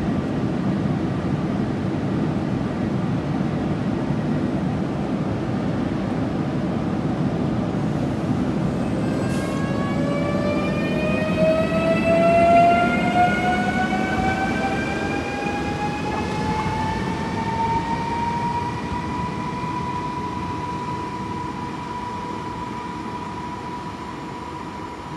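A train rumbling along the track. From about ten seconds in, a motor whine rises slowly in pitch, then holds steady while the sound fades: the train is accelerating.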